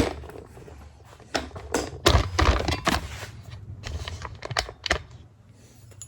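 Metal motorcycle fork parts being handled: an irregular string of light clicks and knocks, thickest about two to three seconds in, as the chrome fork cap is fitted onto the fork.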